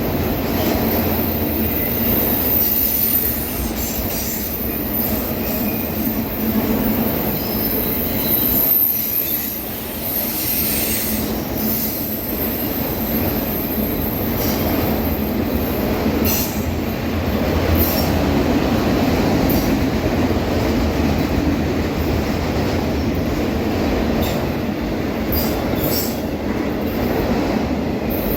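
Norfolk Southern autorack freight train rolling past at speed: a steady rumble of cars on the rails with high-pitched wheel squeal now and then, and a run of sharp clicks near the end.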